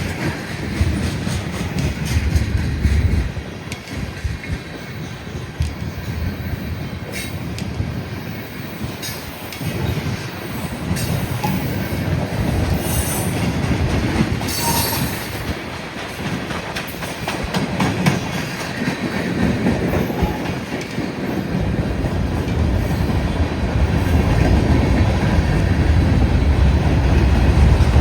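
Freight train rolling past: a continuous rumble of cars on the rail with clicking over the joints and a brief wheel squeal about halfway through. The rumble swells toward the end.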